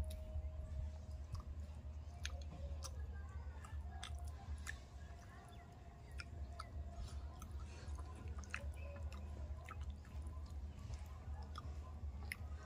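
A person chewing and smacking their lips while eating fish curry and rice, with irregular wet clicks from the mouth, over a steady low rumble.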